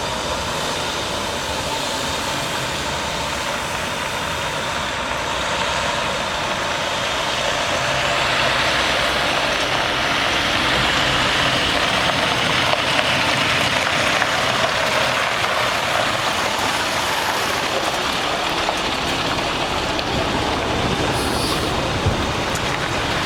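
Water truck's International MaxxForce DT diesel engine running its PTO-driven pump, with water spraying from the spray heads as a steady rushing hiss over the engine. The hiss grows louder about eight seconds in.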